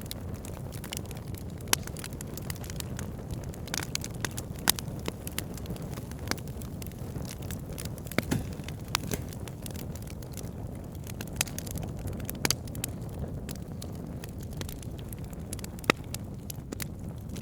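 Wood fire burning with a steady low rumble and scattered crackles and sharp pops from the burning logs.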